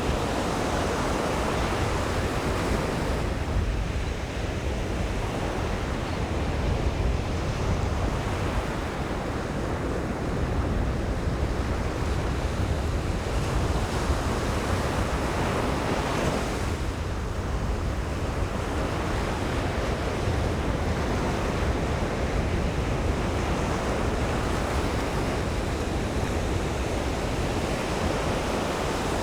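Ocean surf breaking on a sandy beach: a continuous wash of waves that swells and eases, with two lulls, about four seconds in and near the middle. Wind buffets the microphone with a low rumble underneath.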